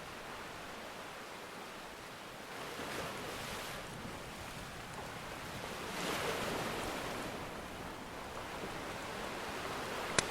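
Ocean surf washing in, swelling twice, with a single sharp pop from a crackling wood fire near the end.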